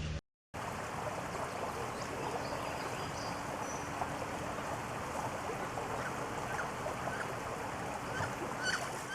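Steady rushing outdoor noise, with a few faint short chirps scattered through it.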